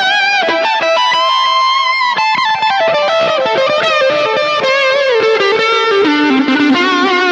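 Fender electric guitar played as a tone demo after a fret level and setup: a single-note lead melody with string bends and vibrato.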